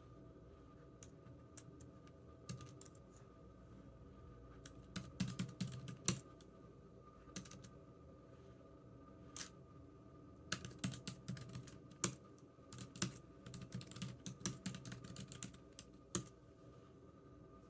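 Typing on a computer keyboard: irregular runs of key clicks broken by short pauses, over a faint steady hum.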